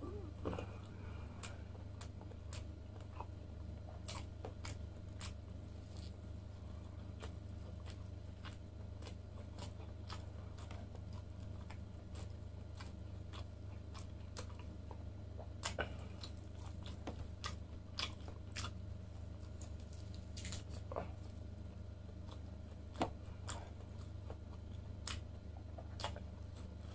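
A man chewing and biting into grilled lamb chops, with many scattered sharp mouth clicks and small crunches. A steady low hum sits underneath.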